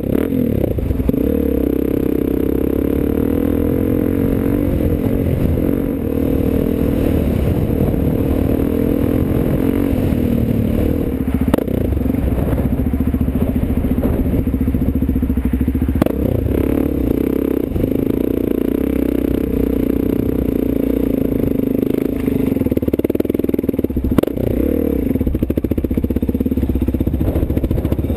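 Motorcycle engine running steadily under way, its pitch shifting slowly, with a few sharp knocks and some clatter over it.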